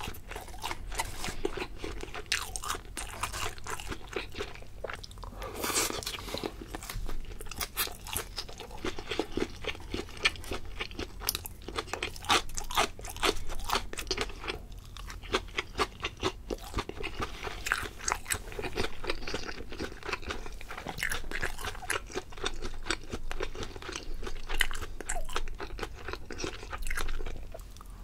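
A person chewing crunchy food close to the microphone: a dense run of small crunches and crackles, pausing briefly now and then.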